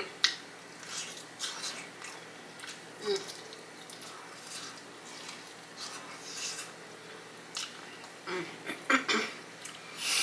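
Close-miked chewing of Flamin' Hot Cheeto-crusted fried chicken: irregular crunches and wet mouth clicks, with a few louder crunches near the end.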